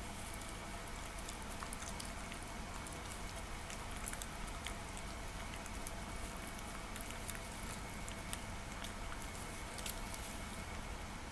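Shiba Inu eating soft homemade food: irregular small wet chewing and smacking clicks, over a steady low background hum.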